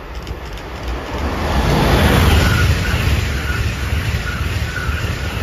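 Amtrak Acela high-speed electric trainset passing at speed: a rush of wheels on rail and air that swells to its loudest about two seconds in and stays loud as the cars go by, with a faint high ringing from the wheels.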